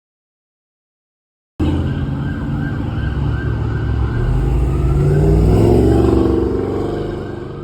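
A siren yelping with a quick, repeating rise and fall over the low rumble of vehicle engines. It starts suddenly after about a second and a half of silence, grows louder, then fades near the end.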